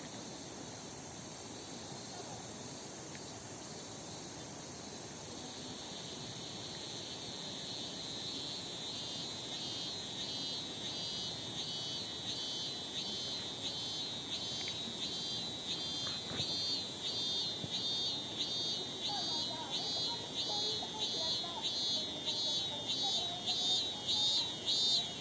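Cicada song: a high pulsing call repeating about one and a half times a second, coming in a few seconds in and growing steadily louder, over a constant high insect hiss.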